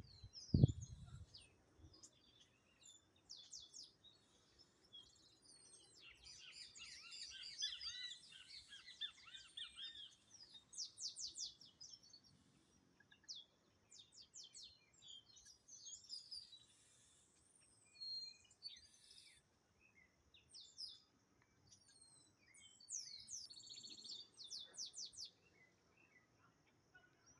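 Several small birds chirping and calling, short high notes and quick repeated trills overlapping, with a dense chorus of chirps about six to ten seconds in. A couple of low thumps sound right at the start.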